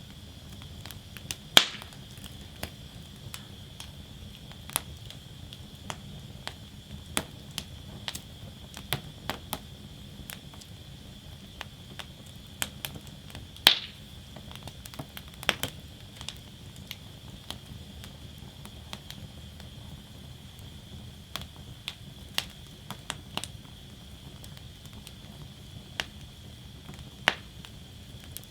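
Wood fire burning in a steel fire basket: irregular sharp crackles and pops over a steady low rumble of the flames, with two louder pops, one about two seconds in and one about halfway through.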